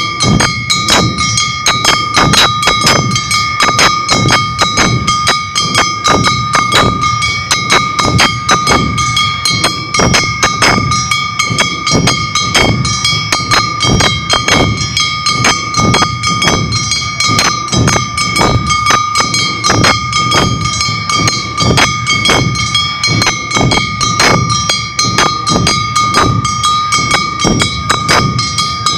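Awa Odori festival band playing: drums and hand gongs struck in a fast, steady beat over a high tone that is held throughout.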